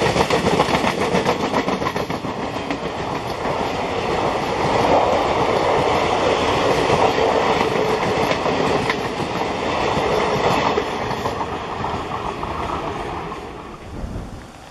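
Indian Railways passenger coaches rolling past, wheels clattering over rail joints with a rapid run of clicks over a steady rolling noise. The sound fades as the tail of the train moves away and drops off near the end.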